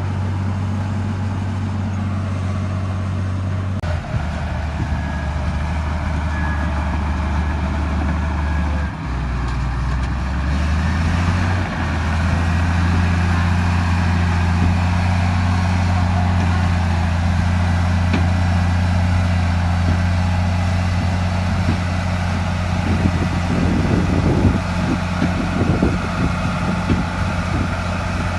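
Heavy diesel earthmoving machine engine running, its pitch dropping and rising several times in the first dozen seconds as the engine speed changes, then holding steady. Irregular clanking and knocking comes in over the last few seconds.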